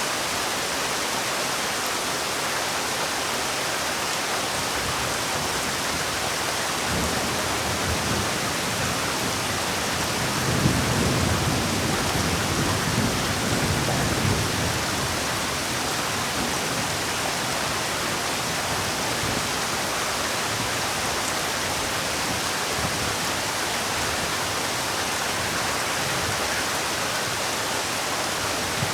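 Steady rainfall hissing throughout, with a low rumble of thunder that swells about seven seconds in, is loudest from about ten to fourteen seconds, then fades back into the rain.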